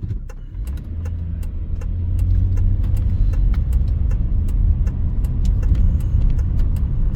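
Car engine and tyre road noise heard from inside the cabin, a low rumble that grows louder over the first two seconds as the car picks up speed, then holds steady. Light clicks run through it.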